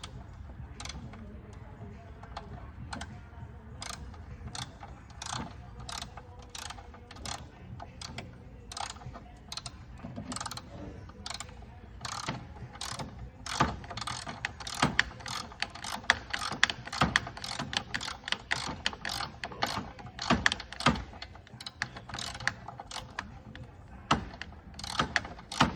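Hand ratchet with a short socket clicking as it tightens nuts: a steady series of sharp clicks, about one to two a second, louder in the second half.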